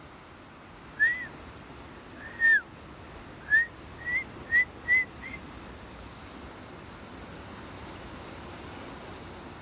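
A run of seven short whistled notes, each a quick rise and fall in pitch, spaced unevenly over about four seconds, against a steady rushing noise.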